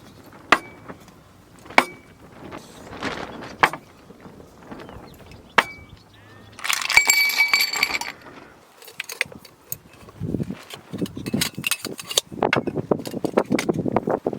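Hard objects clinking: four sharp clinks, each with a brief bell-like ring, then about a second and a half of ringing, jangling clatter just past the middle. Rustling and handling noises follow near the end.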